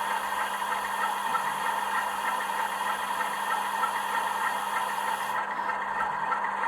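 Model Class 47 diesel sound decoder playing through a small sealed speaker: the engine idles with a regular beat while the steam-heat Spirax valve hisses, the hiss cutting off about five seconds in.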